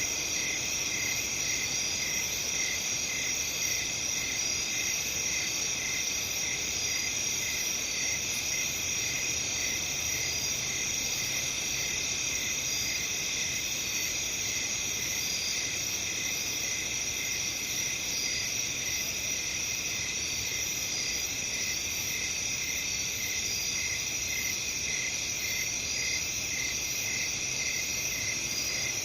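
Night chorus of crickets chirping steadily, several overlapping high trills, one with an even pulsing beat.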